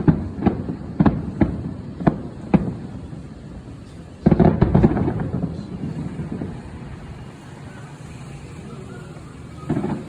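Aerial fireworks bursting at close range: a run of sharp bangs about two a second, then a dense volley of cracks about four seconds in that rumbles away, with more bangs starting near the end.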